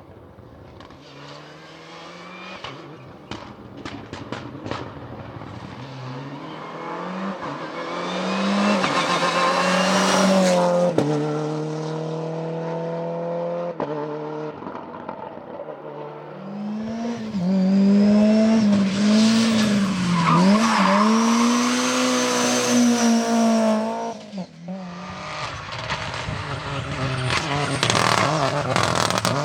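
Rally car engine revving hard as the car comes close, with the engine note climbing, holding and dropping as it shifts and lifts. A second loud spell of revving in the middle rises and dips in pitch, with some tire squeal.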